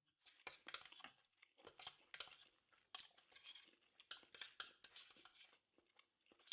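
Quiet close-up chewing of beef jerky: irregular soft mouth clicks and crackles.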